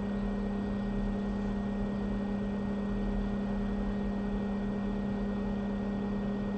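Steady electric hum with an even fan-like hiss from running soldering-bench equipment, the board preheater and hot air rework station; it holds level with no change.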